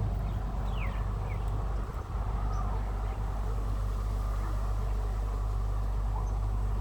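Steady low rumble with a few short, high bird chirps, two quick falling ones about a second in and fainter ones near three seconds.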